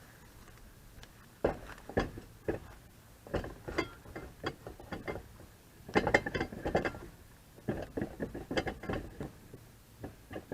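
Ratchet wrench clicking in irregular bursts, with sharp metal clinks, as lug nuts are worked on a wheel hub. The clicking starts about a second and a half in and comes in short runs.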